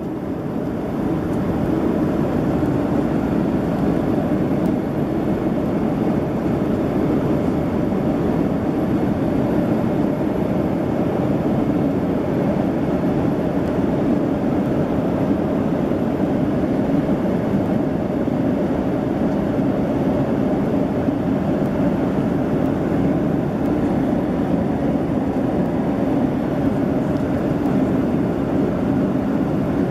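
Steady cabin noise of a Boeing 767-300ER in flight, heard from inside the passenger cabin: an even rumble of engines and airflow. It swells in over the first second or so, then holds level.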